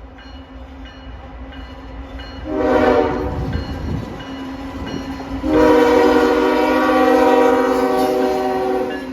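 Diesel freight locomotive's multi-note air horn sounding over the low rumble of the approaching train: a short blast about two and a half seconds in, then a long, loud blast about three seconds later lasting some three and a half seconds, the close of a grade-crossing horn signal.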